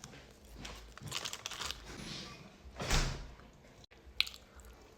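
Pepperoni pizza being chewed close to the microphone, with bursts of soft crunching. A louder noisy burst comes about three seconds in, and a sharp click just after four.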